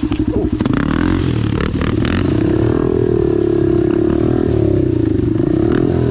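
Dirt bike engine running and pulling with the throttle worked up and down: it chugs low at first, revs up after about a second and holds, dips and picks up again near the end. A few sharp knocks and clatter come in the first two seconds.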